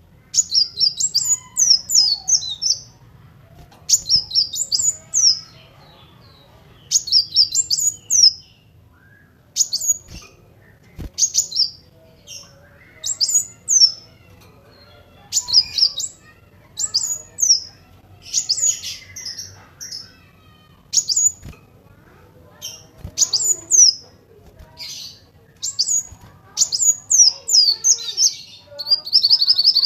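Kolibri wulung sunbird singing: short bursts of rapid, high, thin twittering chirps, each a second or two long and repeated every couple of seconds.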